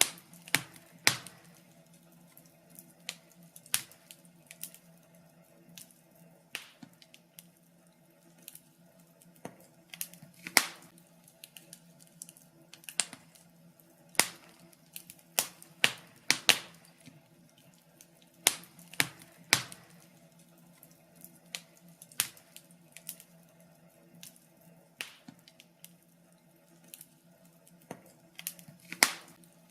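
Wood fire crackling: irregular sharp pops and snaps, sometimes in quick clusters, over a faint steady low hum.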